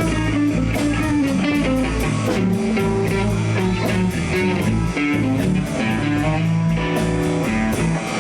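Live blues band playing: electric guitar over bass and a drum kit keeping a steady beat.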